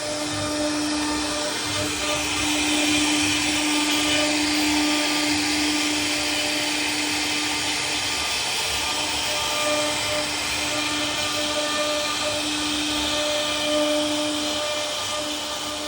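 CNC router carving a wooden door panel: the spindle's steady whine over the hiss of the bit cutting wood.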